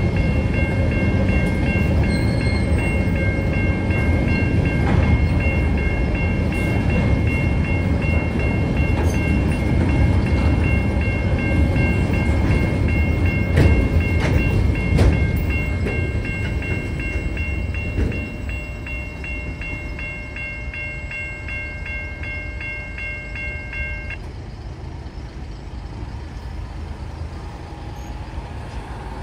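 Tasrail freight train's coal wagons rumbling and clattering through a level crossing, with the crossing's warning bell dinging over and over. The rumble eases about 18 seconds in, and the bell stops about 24 seconds in as the crossing clears.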